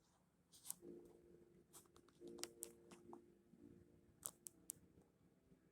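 Near silence: faint room tone with a few scattered sharp clicks and ticks.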